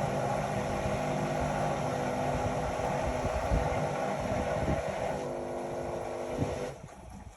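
Indesit Innex XWA 81252 washing machine running with a steady motor hum, which cuts off sharply near the end.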